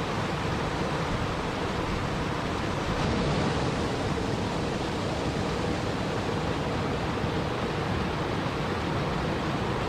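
Steady rushing water noise: an even, unbroken hiss with no separate splashes or drops standing out.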